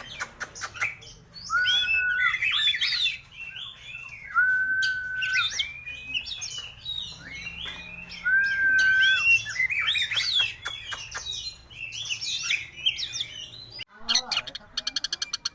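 Oriental magpie-robin (kacer) singing a varied song of quick chirps and trills, broken three times by a held flat whistle. Near the end, after a short break, comes a fast run of evenly repeated notes.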